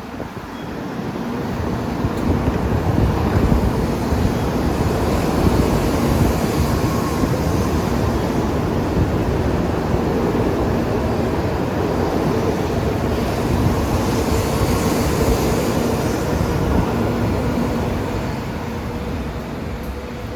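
A Shinkansen train running along the platform: a loud, steady rush of wheel and air noise with a faint hum. It builds over the first couple of seconds, holds, and eases off near the end.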